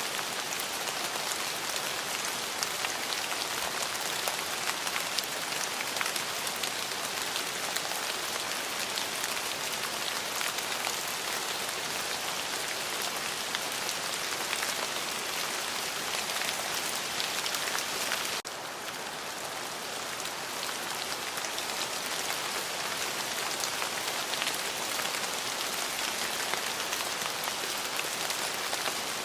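Steady rain falling on a surface: a dense, even hiss flecked with the patter of individual drops. A little past halfway it abruptly turns slightly softer for a few seconds, then builds back to full.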